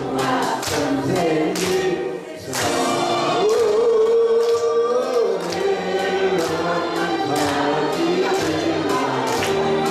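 Several voices singing together to a steady beat of Korean folk percussion strikes, with one long held note in the middle.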